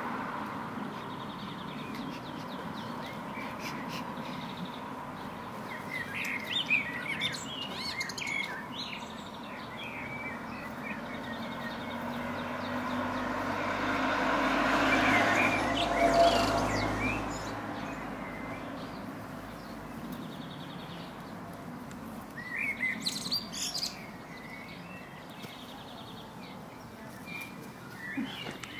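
Small birds chirping in short scattered bursts over a steady outdoor background hiss. A broad rushing sound swells and fades about halfway through.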